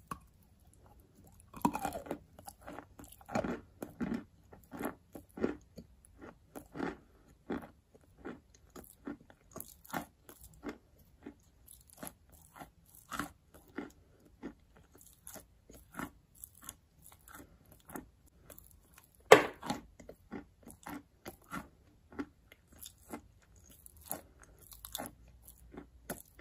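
A bite into a chunk of edible chalk about two seconds in, then closed-mouth chewing with short, dry crunches about two a second and one sharp, loud crunch about three-quarters through.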